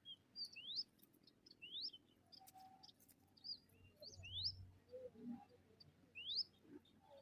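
A bird's short, high chirps, each sweeping quickly upward in pitch, repeated every second or two, with a few fainter short notes between them.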